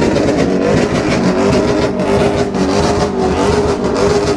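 Car engine held at high revs, steady with a slight waver in pitch, over loud noise from the crowd and the cars.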